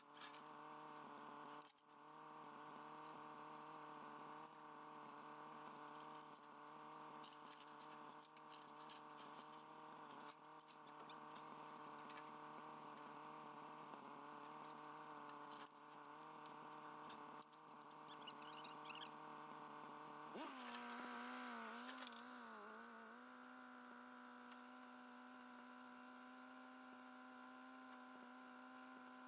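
Faint, steady hum of a running engine. About two-thirds through, its pitch shifts and wavers for a couple of seconds, then settles steady at a new speed.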